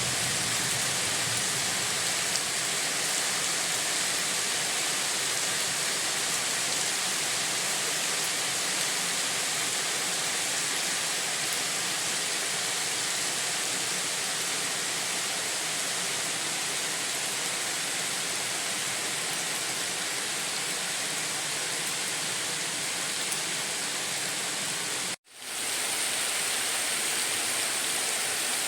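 Steady rain with an even hiss. About 25 seconds in, it cuts out suddenly for a split second and fades back in.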